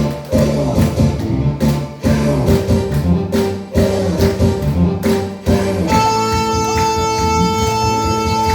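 Saxophones playing a Korean trot song live over a backing track with a steady drum beat; about six seconds in, the music moves onto a long held note.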